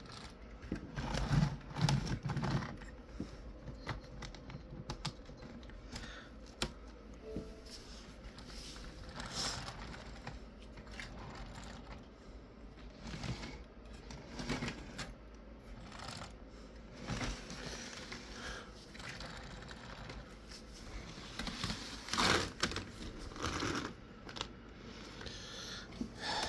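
Model railroad locomotive running around its train on the layout's track: irregular small clicks and clacks of wheels over rail joints and turnouts, over a faint low hum, with louder clusters of clatter near the start and about three-quarters of the way through.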